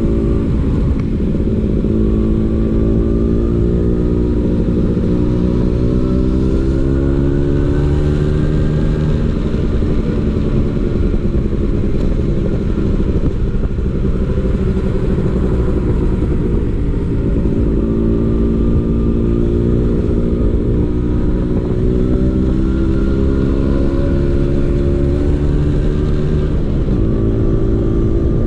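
Vespa PX 150's two-stroke single-cylinder engine running through a DRC Victory racing exhaust, its note climbing steadily in pitch as it pulls, dropping back at about ten seconds in and again near the end, then climbing again.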